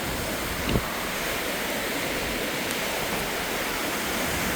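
Strong thunderstorm wind blowing across the microphone, a steady loud rushing, with a single brief knock about three-quarters of a second in.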